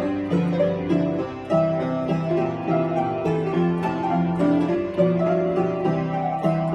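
Solo piano playing, one note after another at a moderate, steady pace.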